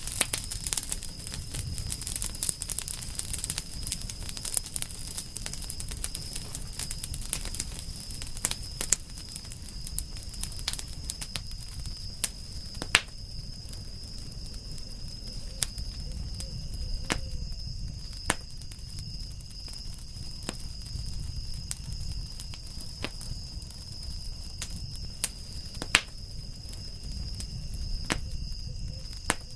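Campfire of burning wood crackling: irregular sharp pops, two louder ones about halfway and near the end, over the low rumble of the flames. A steady high-pitched tone runs underneath.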